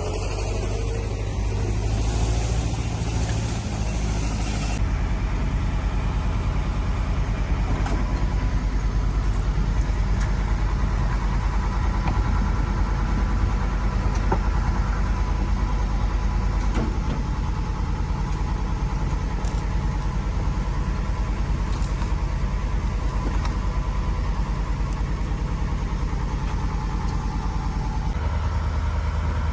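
Motor vehicle engine running steadily with a deep, even rumble; the sound changes abruptly about five seconds in, as at an edit, and then carries on much the same.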